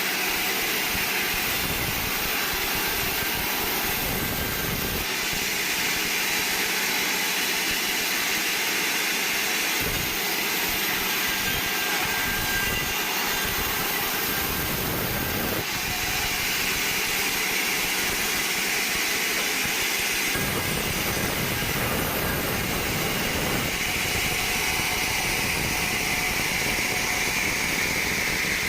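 Band sawmill running steadily, its blade cutting through a pine log as a loud, even whine-and-hiss. The sound changes a few times, around 5, 16, 20 and 24 seconds in.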